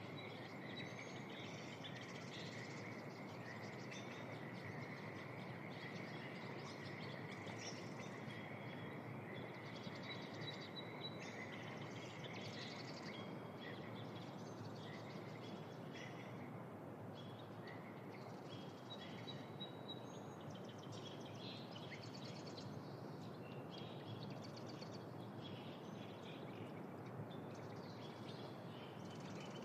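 Spring wetland ambience at evening: a steady rushing background with many short bird chirps and calls scattered over it. A steady high trill runs through the first half and fades out about halfway.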